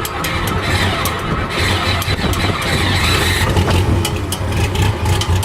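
International 686 tractor engine running steadily just after a cold start, with a low even drone.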